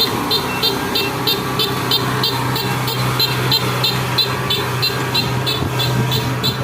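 An engine running steadily, with a short high-pitched beep repeating evenly about three times a second over it.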